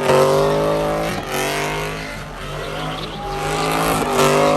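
Car engine revving hard in repeated surges, about one a second.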